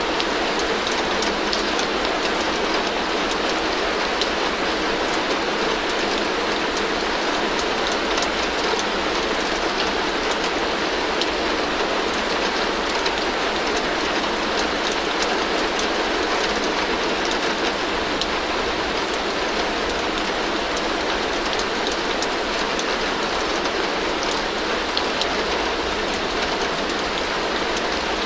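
Heavy rain falling steadily on a tin roof: a dense, even hiss peppered with fine drop ticks, with no change in strength.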